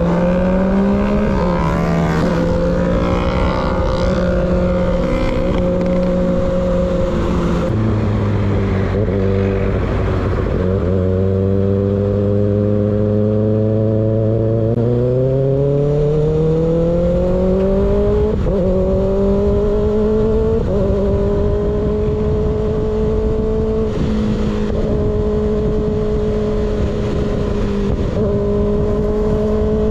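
Motorcycle with an unbaffled slip-on exhaust riding along, heard over wind rush. The engine note holds, drops, then climbs steadily for a few seconds about halfway in. It dips briefly several times in the second half.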